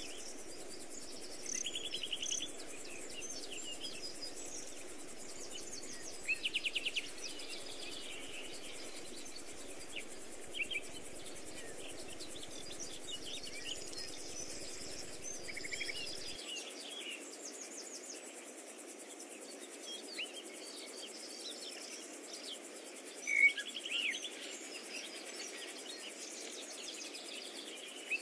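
Small songbirds chirping and singing short, fast trills here and there, with one louder call a little past two-thirds of the way through, over a steady low background hiss of outdoor ambience.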